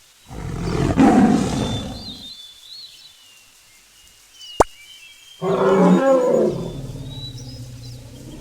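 Big cat roaring twice: a short roar near the start, then a longer one from about five seconds in. Faint high bird calls and a sharp click come in the gap between them.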